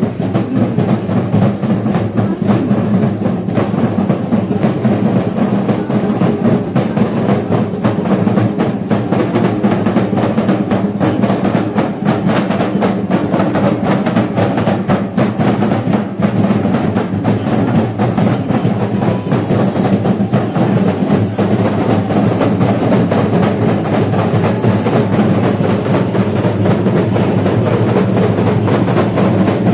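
Ensemble of chenda drums beating a fast, dense, unbroken rhythm at a steady, loud level.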